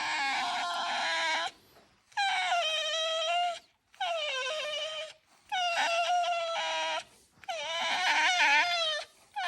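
Pet fox squealing in a run of long, high, wavering whines, five in a row with short breaks between them: her complaining while she is being brushed.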